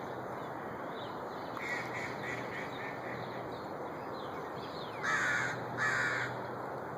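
A bird calling with harsh, cawing calls: a quick run of short notes, then two louder, longer caws about five seconds in, over a steady background hiss.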